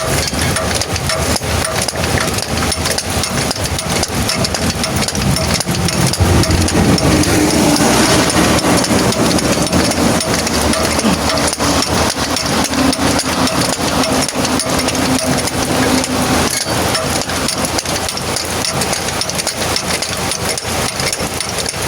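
An engine idling steadily, with repeated knocks of tools on metal from work on a truck wheel.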